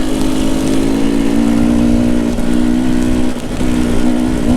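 Two-stroke enduro dirt bike engine running at steady revs, with a brief drop in throttle about three and a half seconds in, over a rough low rumble.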